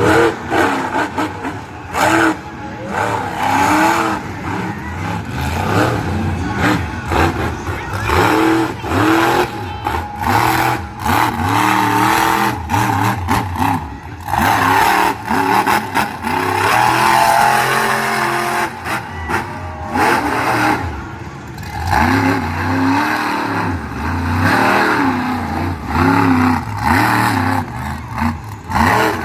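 Monster truck engine revving hard again and again, its pitch climbing and dropping every second or so, with sharp bangs and crashes between the revs.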